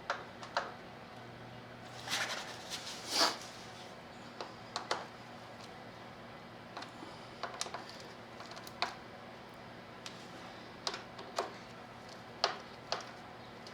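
Scattered clicks and light metallic taps of hand tools as bolts are being tightened on a motorcycle under assembly, with a short cluster of clicks about two seconds in.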